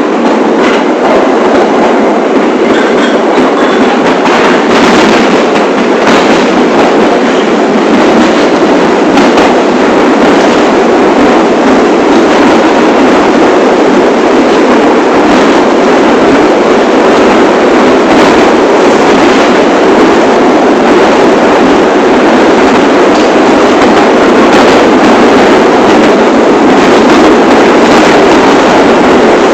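New York City Subway train on the 1 line running along the track with a loud, steady rumble. Wheels click over the rails in the first several seconds.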